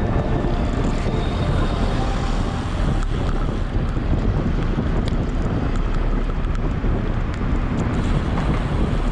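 Strong storm wind buffeting the microphone: a steady, loud rush of noise, with a few faint ticks from about four seconds in.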